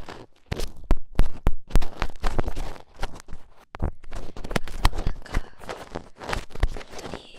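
Close-miked ear-cleaning ASMR: an earpick scraping and rubbing at a microphone's ear, giving irregular crackly scratches and sharp little clicks.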